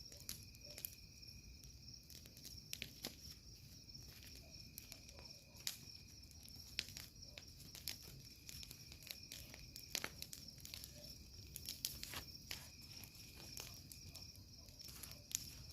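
Wood bonfire crackling with irregular sharp pops, over a steady high trilling of insects.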